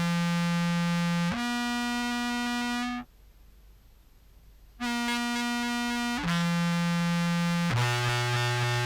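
Contrabass clarinet played through a fuzz pedal chain, giving a buzzy, synth-like tone. Held notes step up, break off for about two seconds of breath near the middle, then come back and step down to a lower note.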